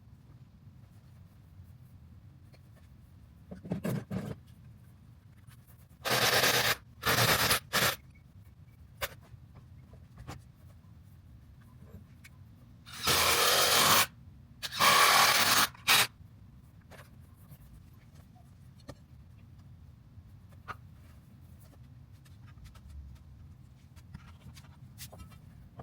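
Short, loud scraping strokes, about seven of them in three groups, with quiet stretches between.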